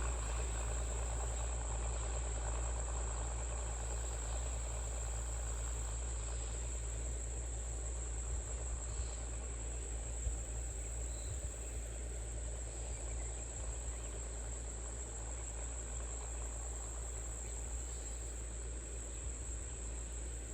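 Steady, high-pitched drone of insects such as crickets, unbroken throughout, over a low steady rumble.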